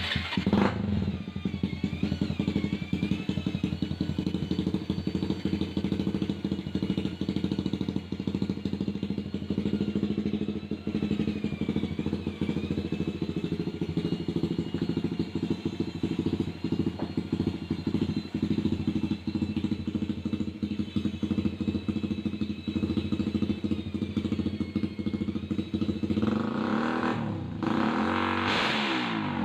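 Suzuki Raider 150 single-cylinder four-stroke engine running steadily at idle, fitted with a new CNC water-cooled cylinder block; the sound changes shortly before the end.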